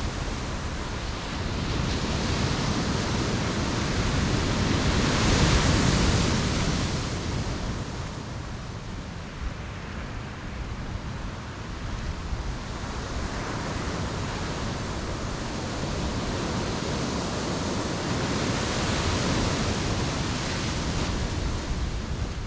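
Ocean surf breaking on a beach, a steady wash of waves that swells to a peak about five seconds in and again near the end.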